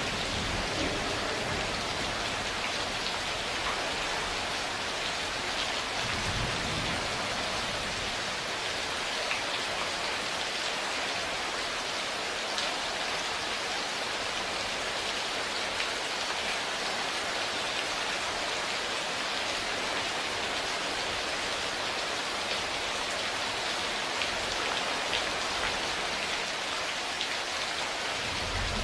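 Steady rain falling on surfaces, with brief low rumbles of thunder at the start, about six seconds in, and again at the end.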